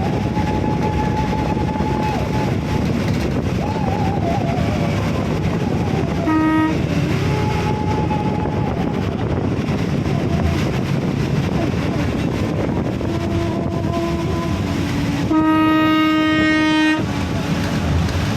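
Steady rumble of a moving vehicle, with a horn sounding briefly about six seconds in and a longer, louder horn blast near the end.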